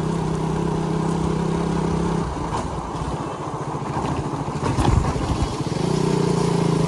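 Motorcycle engine running at a steady cruise, then the throttle closes about two seconds in and the note drops to an uneven putter, with a few low thumps around five seconds in, before the engine pulls steadily again near the end.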